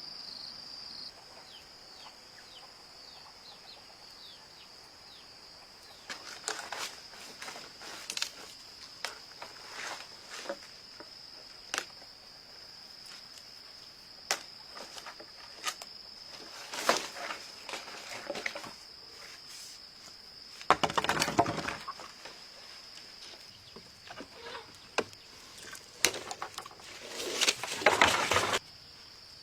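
Irregular knocks and clatters of wood or bamboo being handled, with two longer rough crackling, scraping stretches, one about two-thirds in and one near the end. Under them an insect keeps up a steady high-pitched drone.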